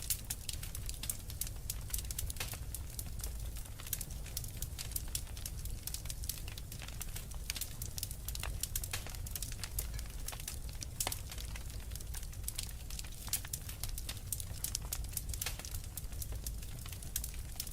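Wood fire crackling with dense, irregular pops and snaps over a steady low rumble of blizzard wind.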